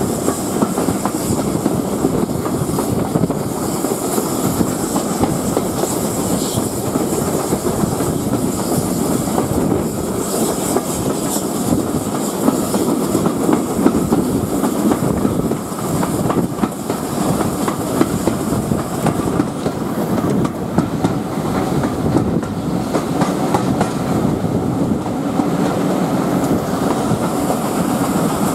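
Steam-hauled passenger train running along, heard from an open carriage window: a steady rumble of the coaches with the wheels clattering over the rail joints.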